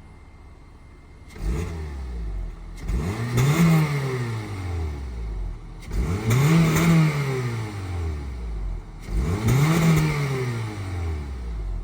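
2012 Honda Civic 1.8 L four-cylinder, with a resonator-deleted exhaust and eBay Fireball muffler, idling while still warming up, then blipped once lightly and revved hard three times about three seconds apart; each rev climbs quickly and falls slowly back to idle.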